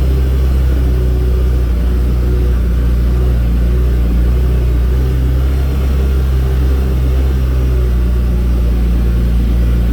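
A vehicle engine running steadily with a constant low drone.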